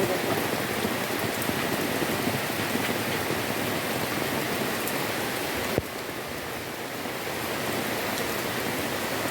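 Heavy rain falling and pattering on surfaces, a steady hiss. A single sharp click about two-thirds of the way through, after which the rain is a little quieter.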